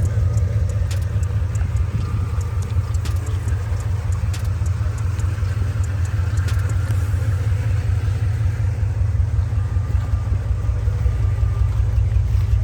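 Old carbureted Chevrolet engine idling with a steady, deep rumble.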